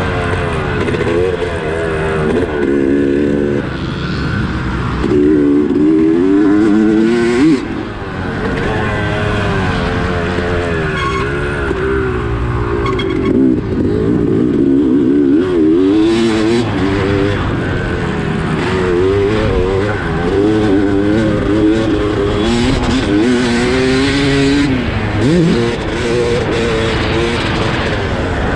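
Dirt bike engine under the rider, revving up and falling back over and over as it accelerates, shifts and backs off for the track, with a sharp drop in pitch several times.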